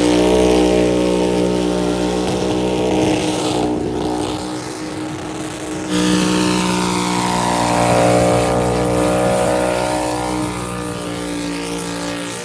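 Racing car engines running at steady high revs, the pitch holding nearly constant. About halfway through, the sound changes abruptly to another engine note, like a cut between shots.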